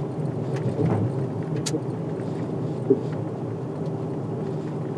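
Steady road and engine noise of a moving car, with a sharp click a little before two seconds in and a short knock about three seconds in.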